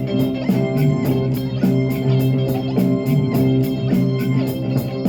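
Live rock band playing an instrumental passage: electric guitar and bass over a steady drum beat, with a cymbal ticking about four times a second.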